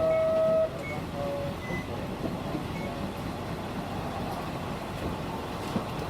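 City bus running, heard from inside the cabin: a steady engine and road-noise rumble. A held electronic beep cuts off just under a second in, and a few short faint tones follow.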